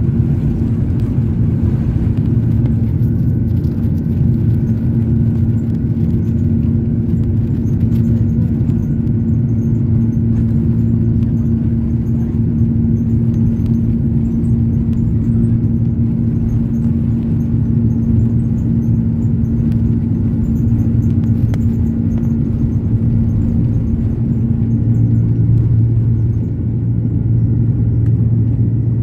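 Cabin noise of an Airbus A330-300 with Rolls-Royce Trent 700 engines during takeoff: a loud, steady engine rumble with a droning hum. The higher note of the hum fades out about 25 seconds in.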